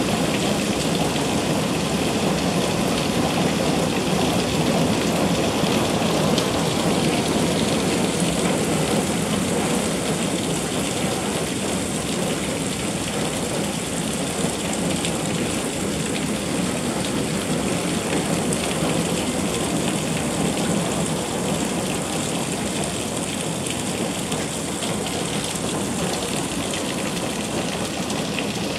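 Heavy rain pouring steadily onto a concrete driveway, lawn and street, a dense even hiss of drops that eases a little in the second half.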